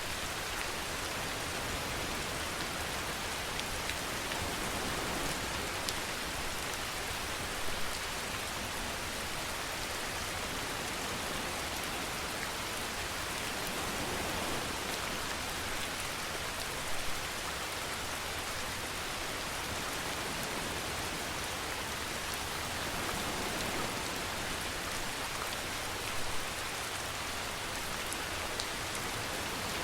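Steady rain falling on a surface, an even hiss of drops with a few slightly louder taps standing out now and then.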